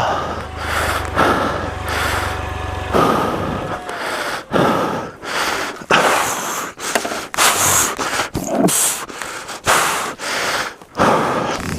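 A man panting hard in heavy, rasping breaths and gasps, a breath every second or so: the rider is exhausted from straining to heave a heavy dropped motorcycle upright. A low steady hum runs under the first three seconds, then stops.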